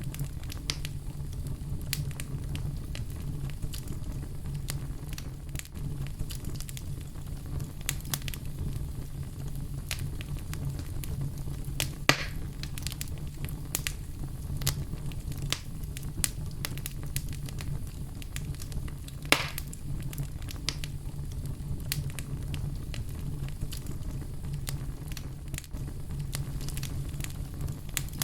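Wood fire burning in a fireplace: a steady low rumble of flames with scattered crackles and a couple of louder pops, about 12 and 19 seconds in.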